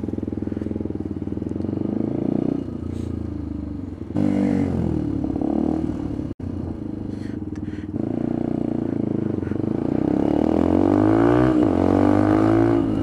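Benelli TNT 125's single-cylinder engine under way, its pitch climbing as it accelerates and dropping back at gear changes. The sound jumps abruptly twice, about four and six seconds in.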